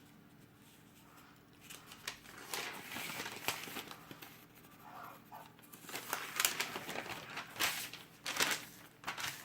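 Paper rustling and crinkling in irregular bursts, as a printed store ad circular is handled and its pages are turned.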